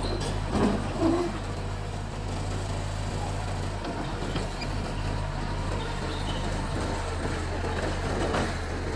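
Bulldozer diesel engine running at a steady speed, a constant low hum, with two brief louder sounds about a second in.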